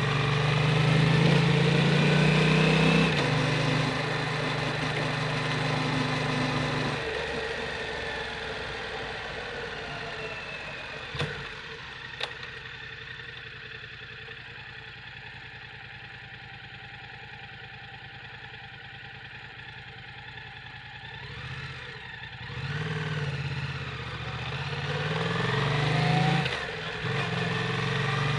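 Yamaha MT-07 parallel-twin engine through an Akrapovic Racing Titan full exhaust. It runs under load, eases off and settles to a quieter steady idle for several seconds, with two sharp clicks in the middle. It then pulls away again, its pitch rising, with a brief dip near the end.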